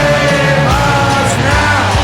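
Rock band music, with a melody line bending up and down in pitch.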